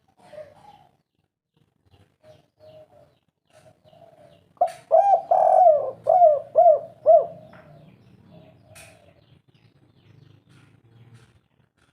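Spotted dove cooing: a few soft coos, then about halfway through a loud phrase of about six arched coos with one longer note in the middle, then soft notes again.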